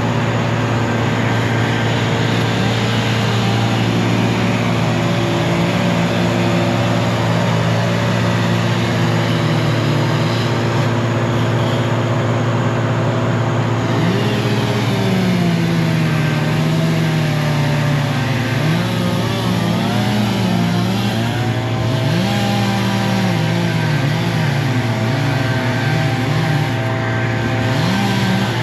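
Heavy tree-removal machinery running steadily, with a diesel engine's drone under a tone that rises and falls as the machine works, mostly in the second half.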